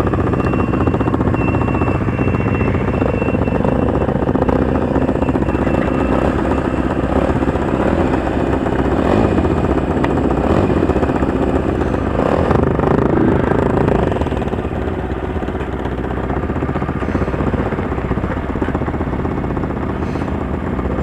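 Sport motorcycle engines running as a group of riders sets off, a little louder for a few seconds before easing off about two-thirds of the way in.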